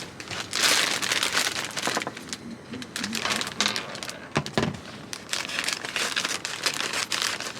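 Plastic wrapping crinkling and rustling as it is handled and pulled off, an irregular run of crackles with a sharper crackle about four and a half seconds in.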